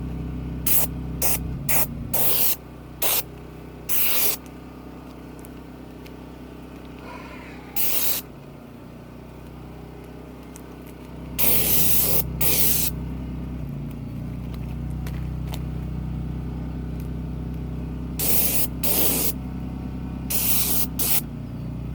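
Oil sprayed onto pieces of ponderosa pine bark in many short hissing bursts, bunched in the first few seconds and again in the second half, over a steady low hum.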